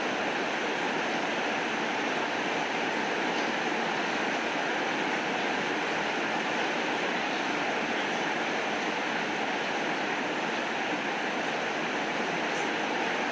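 Steady rain falling, an even hiss with a few faint, light ticks.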